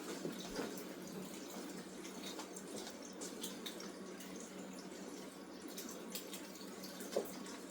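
Faint steady hiss of room and microphone noise, with a few soft ticks or rustles.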